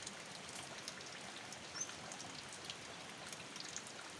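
Light rain falling: a steady soft hiss with scattered drops clicking. There is a brief high chirp about two seconds in.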